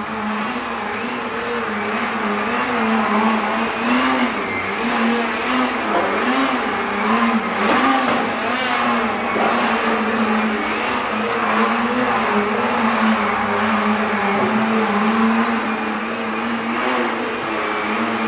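Radio-control aerobatic model airplane engine running in flight, its pitch wavering up and down with throttle and manoeuvres.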